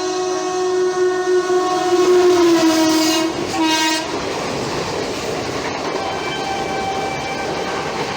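Air horn of an Indian Railways WAP-4E electric locomotive sounding a long blast that drops in pitch as the engine passes, then a short second blast. It gives way about four seconds in to the steady rush and clickety-clack of the express's coaches going by at speed.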